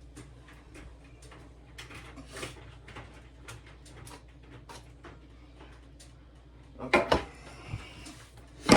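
Light clicks and knocks of kitchen utensils and containers being handled over a low steady hum, with a loud sharp knock near the end.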